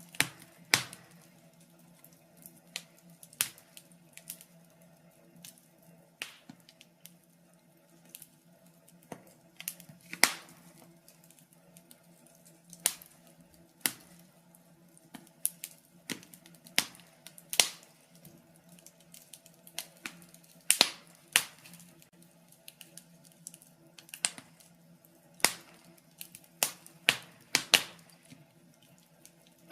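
Wood fire in a fireplace crackling: irregular sharp pops and snaps, a few every couple of seconds, some much louder than others, over a faint steady low hum.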